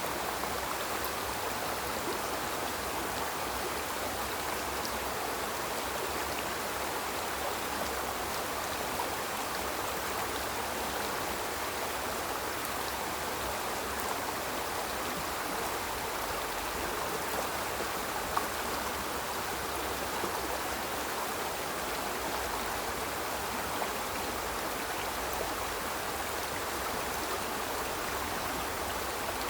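Small river flowing: a steady rush of water with a few faint splashes.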